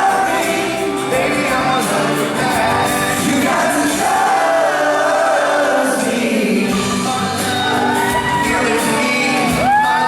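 Boy band singing a pop song live with the music amplified through a concert PA. Fans whoop and scream over it, with a couple of high, arching screams near the end.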